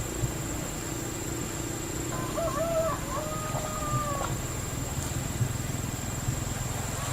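A rooster crowing once, starting about two seconds in and lasting about two seconds, over a steady low hum.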